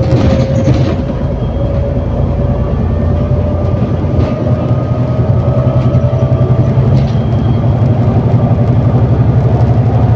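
ADL Enviro400 City double-decker bus with a Voith automatic gearbox under way, heard from on board: a low engine drone that grows more pulsing and slightly louder toward the end, with a whine that slowly rises in pitch as the bus gains speed.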